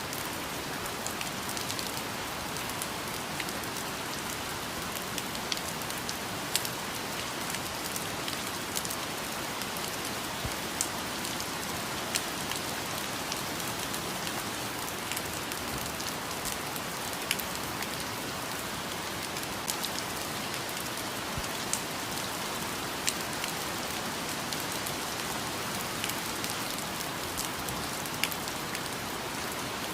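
Steady rain falling, with a constant hiss and scattered sharp drip and drop impacts throughout.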